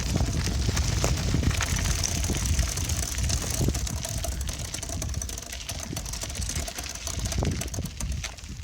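Wind buffeting the microphone with a gusty low rumble, over the rattle and rolling noise of a moving bicycle, with many small clicks and knocks.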